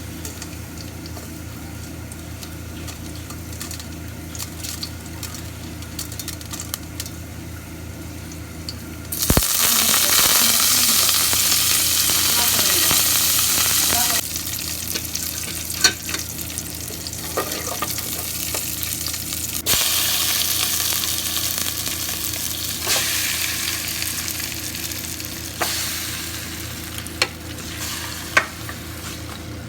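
Food frying in hot oil in a pan: about nine seconds in, something is added and a loud sizzle starts, then settles to steady sizzling. A utensil stirs and clicks against the pan, over a steady low hum.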